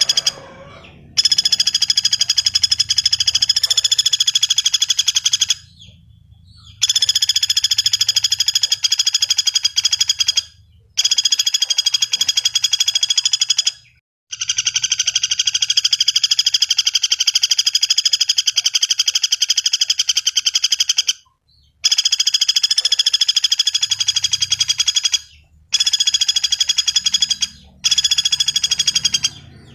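Pelatuk bawang woodpecker giving long, very rapid rattling trills, loud and high-pitched, in about seven runs of two to seven seconds each with short breaks between them.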